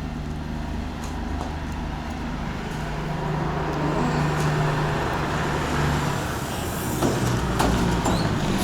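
Road vehicle engine running with a steady low drone that grows louder over the first few seconds, with a few clatters near the end.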